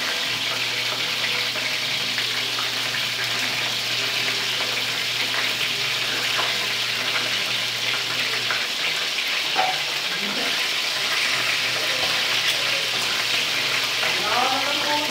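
Chicken frying in oil in a pan on a gas burner: a steady sizzle throughout. A low hum stops about halfway, and a voice is heard briefly near the end.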